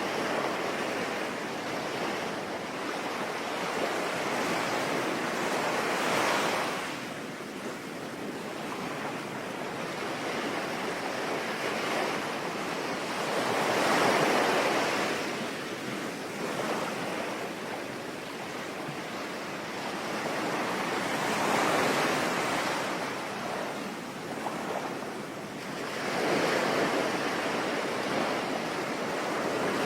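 Sea waves breaking and washing in, surging louder and fading away four times, over a steady hiss of rain.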